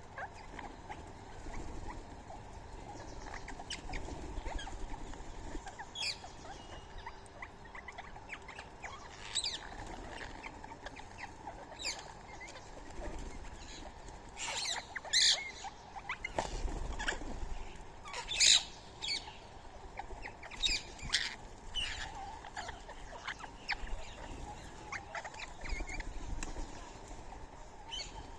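Scattered short, sharp high chirps from small animals feeding on soaked rice, coming singly and in quick pairs over a steady low outdoor background, a few of them louder near the middle.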